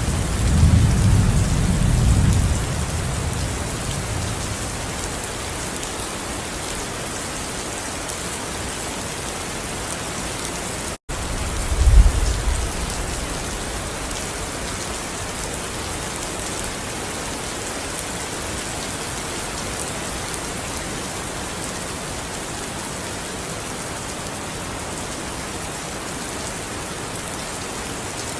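Steady rain falling, with low rumbles of thunder: one dying away over the first few seconds and a short, louder one about twelve seconds in. The sound cuts out for an instant just before that second rumble.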